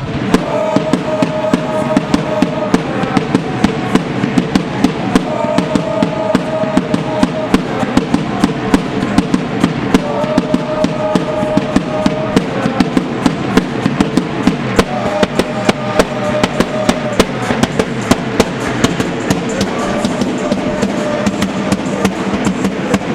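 Supporters' drums beating a fast, steady rhythm, with a melody repeating every four to five seconds over them.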